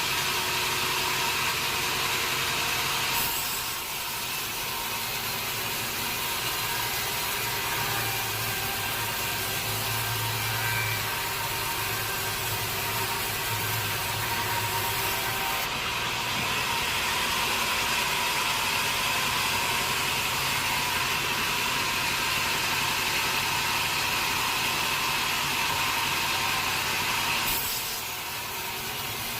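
Sawmill saw cutting through a teak log, running as a steady loud whine and rasp with a slight shift in level a few seconds in, again about halfway, and near the end.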